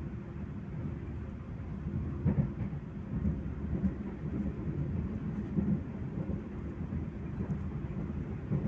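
Passenger train running along the track, heard from inside the carriage: a steady low rumble with a few brief knocks.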